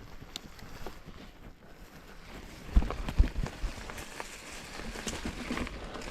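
Full-suspension mountain bike rolling over rough singletrack: tyres crackling over the trail surface, with a burst of heavy thumps and clatter about three seconds in as the bike hits bumps.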